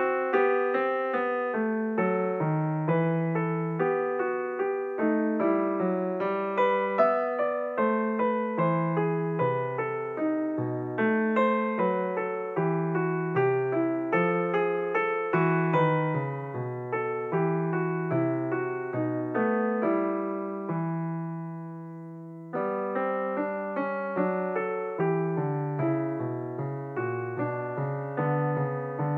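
Background piano music: a steady flow of gentle single notes and chords. About three-quarters of the way through, a held chord fades away before the playing starts again.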